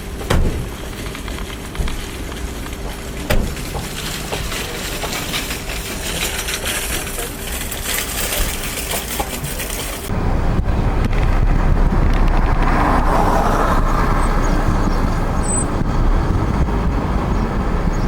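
Road and engine noise of a moving car, with a couple of sharp knocks in the first half. About ten seconds in it switches abruptly to a louder, deeper rumble.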